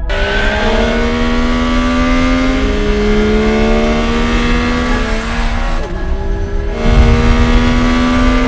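Motorcycle engine revving hard, its pitch climbing slowly in steps as if going up through the gears, with a brief break about six seconds in.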